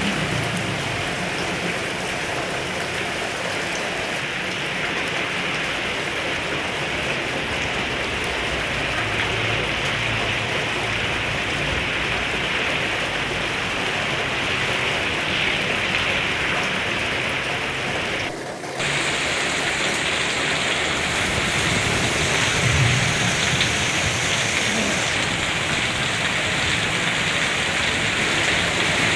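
Heavy rain falling steadily in a dense, even hiss, briefly dipping about two-thirds of the way through.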